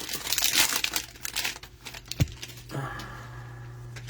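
Trading-card packaging crinkling as a hanger box is opened, for about the first second and a half, then a single knock about two seconds in, then a steady low hum.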